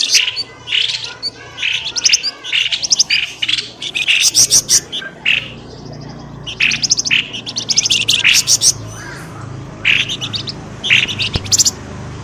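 Lure call of the pelamboyan bird: short bursts of fast, high chirping notes that come again about every second, over a faint low steady hum.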